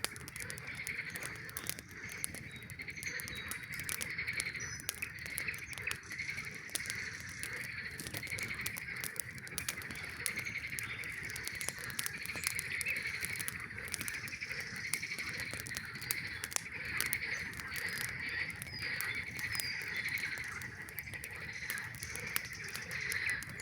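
A steady chorus of many frogs calling together, with the sharp crackles and pops of a campfire scattered throughout.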